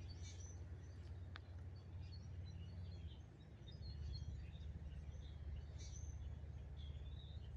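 Faint riverside ambience: a steady low rumble with scattered short, high bird chirps.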